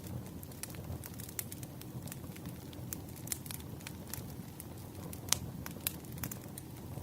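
Wood fire crackling: irregular sharp pops and snaps over a low, steady rumble, with one louder pop about five seconds in.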